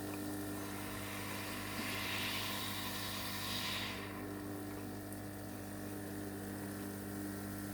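Jebo P30 aerator air pump humming steadily while its air bubbles up through the pond water; a hiss of bubbling swells for a couple of seconds about two seconds in.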